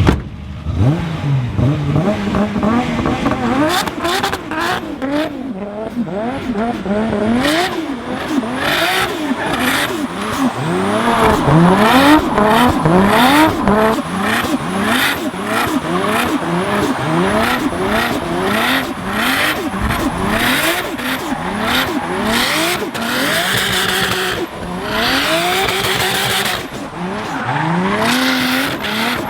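Nissan Skyline R33's RB26 straight-six engine revving up and dropping back over and over as the car drifts, with tyre squeal.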